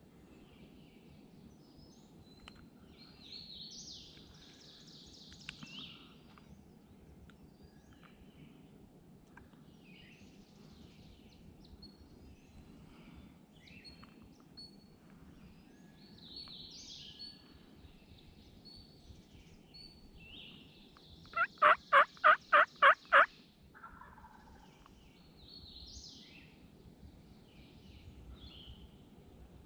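Turkey calling: a single loud run of about seven evenly spaced notes, some four a second, lasting just under two seconds, about two-thirds of the way through. Faint songbird chirps and twitters come and go around it.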